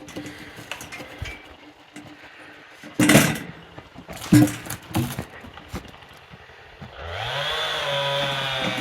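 A few sharp knocks, then a chainsaw engine starts a couple of seconds before the end, rising quickly in pitch and settling into a steady run.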